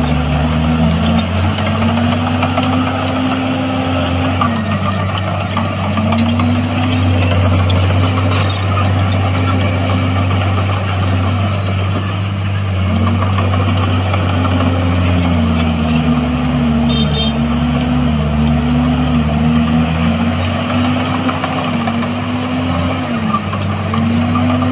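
Heavy diesel engine of earthmoving machinery running under load, its speed dipping and rising again and again as the machine works.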